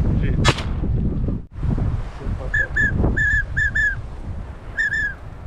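Seven short, high whistled duck-call notes, each rising and falling in pitch, in quick clusters through the second half, over wind buffeting the microphone. A sharp click sounds about half a second in.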